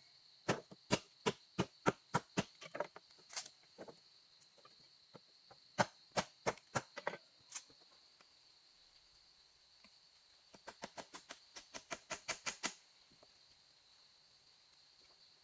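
Sharp knocks or taps struck in quick succession in three runs, about three a second, the last run faster and growing louder, over a steady high-pitched insect drone.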